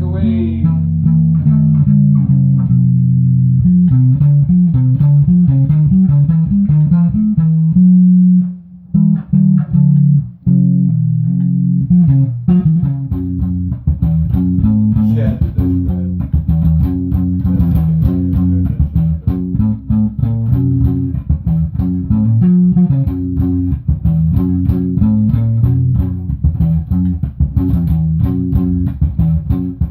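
Bass guitar and guitar jamming: a continuous run of plucked notes with the low bass line loudest, broken by a short pause about nine seconds in.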